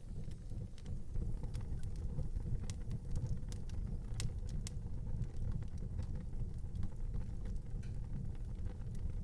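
Wood fire burning in an outdoor fireplace: a steady low rumble with scattered crackles and pops, the sharpest pop about four seconds in.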